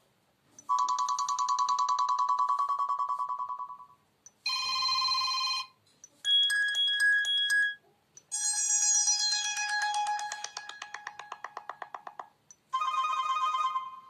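Sony Xperia L1 phone speaker playing short previews of its preloaded ringtones one after another, each cut off when the next is picked: five different tunes in turn. The first is a long pulsing tone. A later one opens with a falling run of notes.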